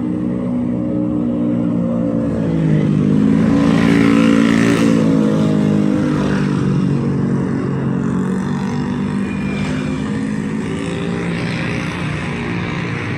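Street traffic: a motor vehicle's engine passes close, its note swelling and loudest about three to five seconds in, with other engines running beneath.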